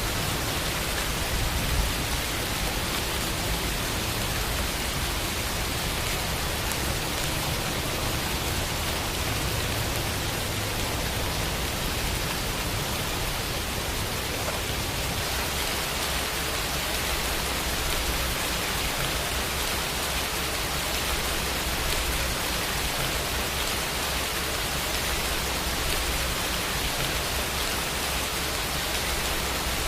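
Steady rain falling, an even hiss of drops with no separate drips standing out.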